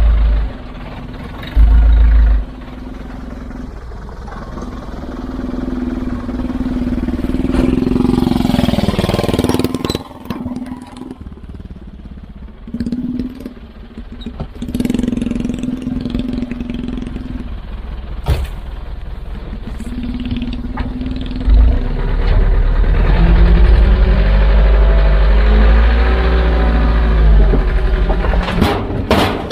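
Heavy construction machinery's diesel engine working under changing load, rising and falling in pitch. Deep low rumbles come twice near the start and again through the last third.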